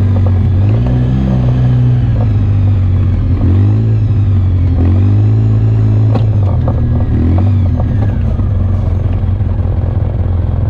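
Off-road vehicle engine running on a trail under changing throttle, its pitch rising and falling every second or two, with a few sharp knocks around the middle.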